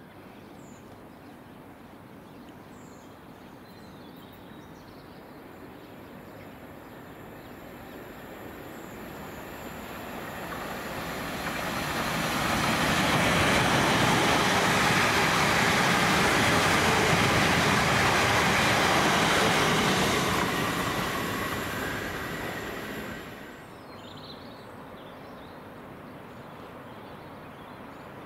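Electric multiple-unit passenger train passing at speed: its rumble and wheel noise build from about eight seconds in and stay loudest for about eight seconds. The sound then falls away quickly, leaving a steady background hum.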